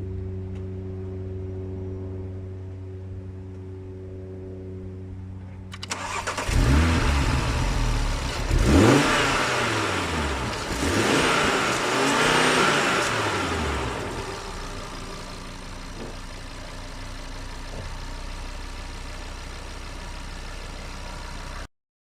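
Audi RS3's five-cylinder engine revved four times in a row, its pitch rising and falling with each blip, then settling back to a steady idle. It is preceded by a steady low hum, and the sound cuts off abruptly just before the end.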